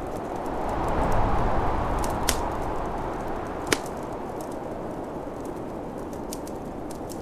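Wood fire crackling with scattered clicks and two sharp pops, over snowstorm wind that swells in a gust about a second in and then eases.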